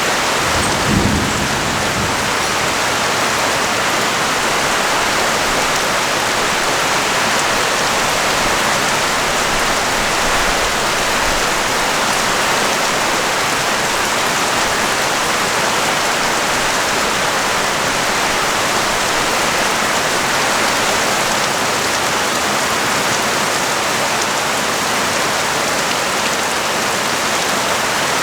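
Heavy rain pouring steadily onto a street and surfaces. A brief low rumble rises about a second in.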